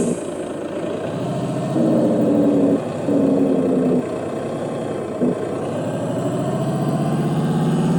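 Heavy truck engine running and revving, its pitch and loudness changing in steps about once a second, then climbing slowly near the end.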